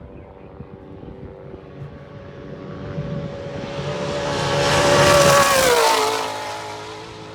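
A trophy truck's engine running hard as the truck passes at speed. It grows louder to a peak about five seconds in, its pitch drops as it goes by, and then it fades away.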